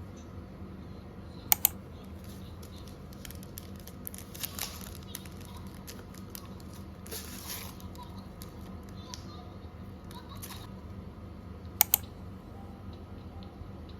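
Light tapping and rustling as objects are handled, with a sharp double click about a second and a half in and another near the end.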